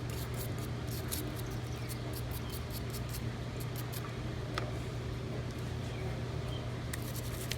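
Brush scrubbing dirt off a lawnmower engine around the carburetor: quick scratchy strokes, dense for the first few seconds and then only now and then, over a steady low hum.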